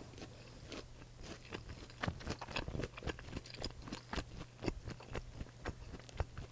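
Close-miked chewing of food, a rapid, irregular run of small sharp clicks and crunches from the mouth.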